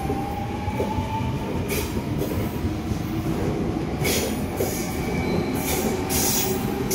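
Double-deck electric suburban train moving along the platform: a steady rumble of wheels on rail, with a motor whine rising in pitch in the first second as it gathers speed. Short hissing clatters come at about two, four and six seconds in.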